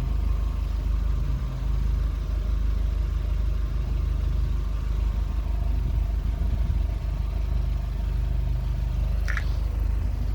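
Mk1 Audi TT 225's turbocharged 1.8-litre four-cylinder engine (BAM) idling steadily, tuned to about 300 bhp. A brief high chirp sounds about nine seconds in.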